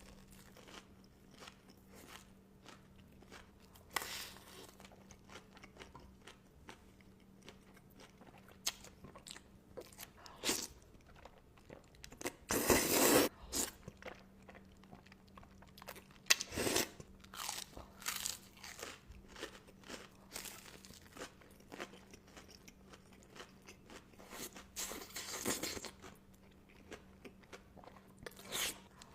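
Close-miked eating: crisp crunching bites and chewing in irregular bursts, the loudest a bit under halfway through.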